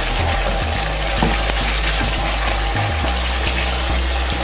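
Beetroot strips, tomato and spices sizzling steadily in oil in a pot while a wooden spoon stirs them. The sizzling is the sign that the masala is well fried (bhuna): the vegetables' water has cooked off and only oil is left.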